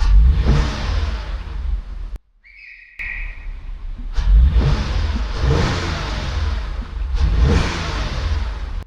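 Toyota Avalon engine running and being revved three times, the pitch rising and falling with each blip of the throttle, with a short break and a faint steady high tone about two seconds in. The engine now starts and runs after a crank-no-start repair.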